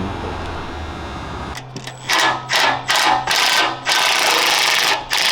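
Power wrench running in a string of short rattling bursts, then two longer runs, spinning fasteners off steel armour plate. A steady low hum stops about a second and a half in, just before the bursts begin.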